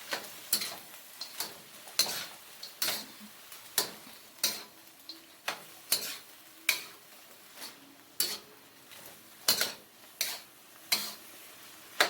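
A cooking utensil scraping and knocking against a frying pan as chicken and green beans are stirred, in irregular strokes about one or two a second, over a light sizzle.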